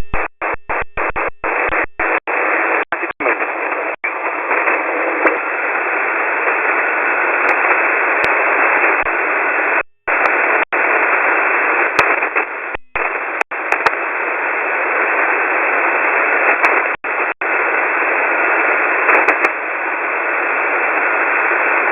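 Shortwave receiver hiss on an open voice channel, heard through a WebSDR and confined to a narrow telephone-like band, with a faint steady whistle in the background. It cuts out to silence several times, stuttering rapidly on and off in the first three seconds, then briefly about ten, thirteen and seventeen seconds in.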